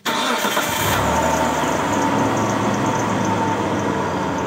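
2001 Mitsubishi Montero's 3.5-litre 6G74 V6 starting and settling into a steady idle about a second in, with a light squeak from old accessory pulleys.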